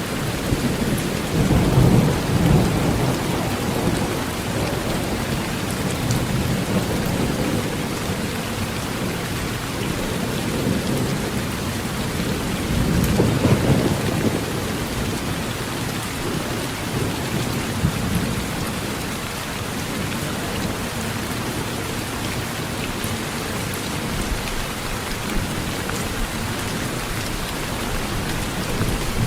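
Heavy rain falling steadily on a metal roof, with two low rolls of thunder, one about two seconds in and another around the middle.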